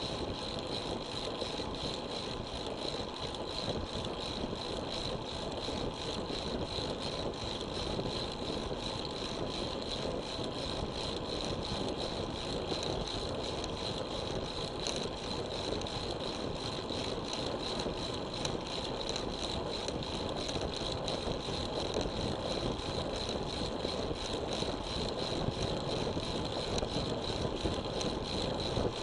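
Steady road and wind noise of a road bicycle ride, with a dense, constant fine rattle from jolts over the road surface, picked up on an action camera.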